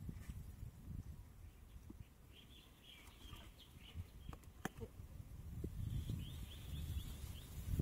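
Faint bird chirping in two short runs of quick notes, with a single sharp click a little past the middle.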